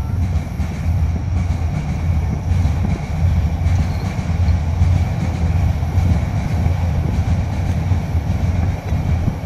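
Keisei Main Line electric train crossing a steel truss railway bridge, a steady low rumble of wheels and bridge.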